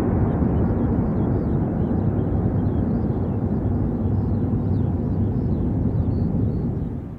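Low, steady rumble of a high-speed train running inside the tunnel, slowly fading as it goes away. It drops off sharply near the end.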